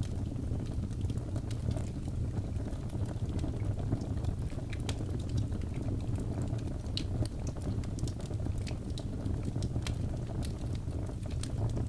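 Wood fire crackling in a fireplace: a steady low rumble of burning with scattered sharp pops and snaps at irregular moments.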